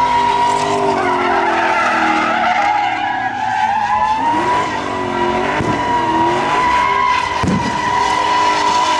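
Truck doing a burnout: tyres squealing in one steady high squeal, with the engine revving up and down underneath.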